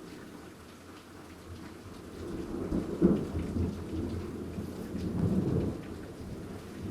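Thunder rumbling over steady rain. The rumble builds about two seconds in and is loudest at a sharp peak about three seconds in, then swells again a couple of seconds later.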